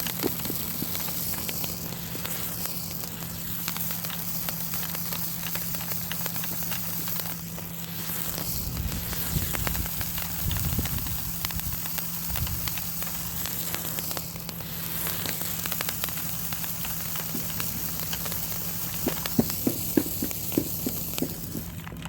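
Sparkler burning in a battery-operated seal firework toy: a steady sizzling hiss full of small crackles, with a few louder pops near the end.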